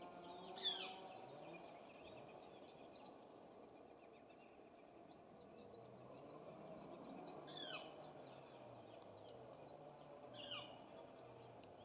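Faint songbird calls: two sharp calls sweeping downward in pitch, the first near the start and the second about seven seconds later, with scattered short chirps over a low steady hum.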